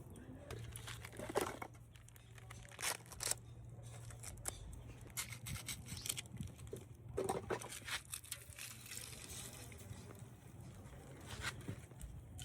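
Irregular rustling, scraping and crackling of things being handled, with a few louder scrapes, over a low steady hum.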